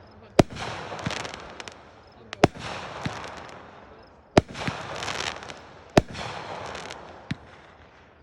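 Fireworks going off: four sharp bangs about two seconds apart, each followed by a crackling, fizzing trail that fades away.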